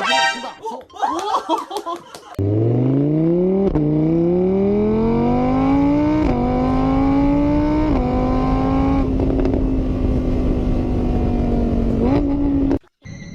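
An engine revving up loudly, its pitch climbing in several steps as if through gear changes, then holding steady before cutting off abruptly near the end.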